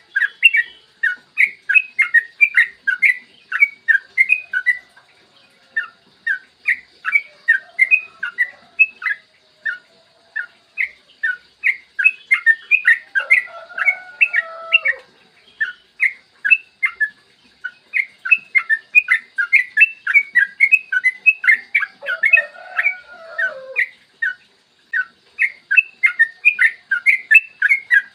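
Sooty-headed bulbul (trucukan) singing a long, fast run of short chirping notes, about three or four a second, broken by a few brief pauses. Lower gliding calls sound twice, in the middle and again about two-thirds of the way through.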